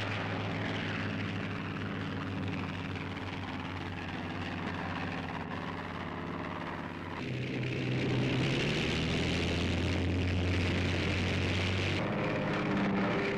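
Piston engines of Curtiss P-40 fighters running at high power for takeoff, a steady propeller drone. The sound shifts abruptly about seven seconds in and again near twelve seconds, and is louder from about eight seconds on.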